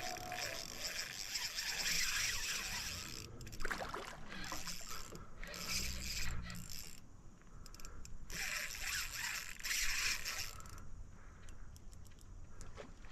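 Fishing reel being cranked in repeated bursts with short pauses between them, reeling in a hooked fish that is still fighting.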